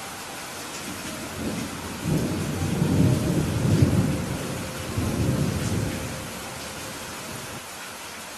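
Steady rain falling, with a roll of thunder that swells about a second and a half in, rumbles loudest around the middle with a second surge, and fades away about six seconds in, leaving the rain.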